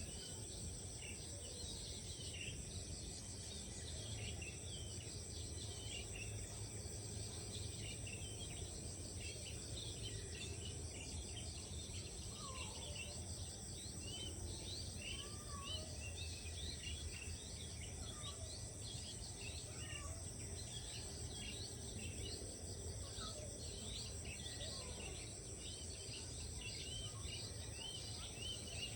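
Rice-paddy morning ambience: a steady high drone of insects with many short bird chirps and calls throughout, over a low rumble.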